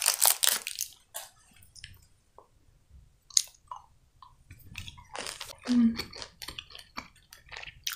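A candy wrapper crinkles for about a second, then a soft marmalade (jelly) candy is chewed, with scattered small mouth clicks.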